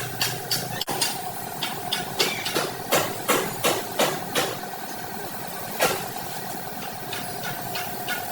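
Irregular hammer blows on car-body sheet metal during panel-beating (denting) work, coming thick and fast through the first half and thinning out after one last blow about six seconds in, over a steady hum.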